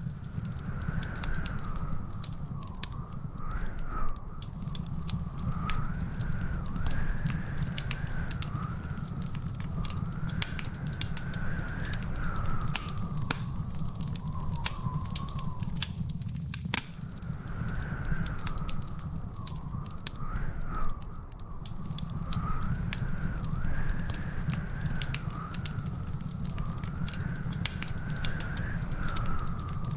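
Wood fire in a fireplace crackling, with many sharp pops and snaps over a low rumble. A high wavering whistle runs through it.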